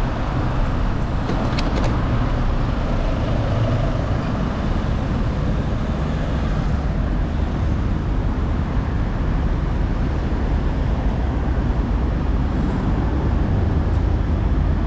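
Steady rumbling road and wind noise from riding a bicycle on a road with traffic. Two or three short clicks come about a second and a half in.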